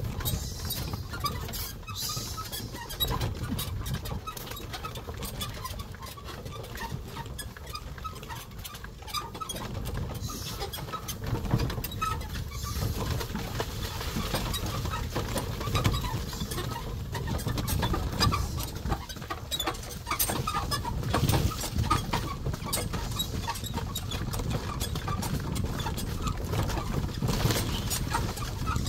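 Carabao-drawn cart on the move: a steady low rumble with irregular clattering and knocking, and birds calling now and then.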